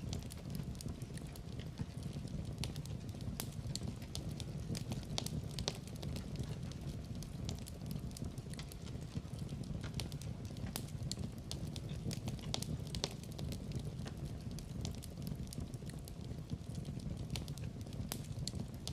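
Wood fire burning in a fireplace: a low steady rumble of flames with frequent irregular crackles and pops.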